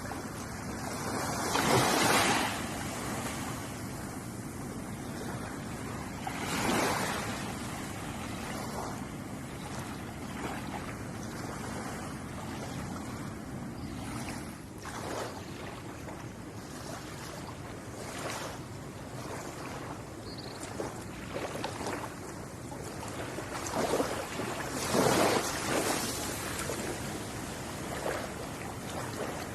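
Ocean waves washing onto a beach: a steady surf noise, with louder waves breaking and washing in about two seconds in, near seven seconds, and twice close together near the end.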